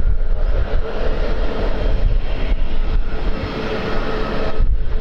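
Landing aircraft's engines running loud with a steady whine over a deep rumble.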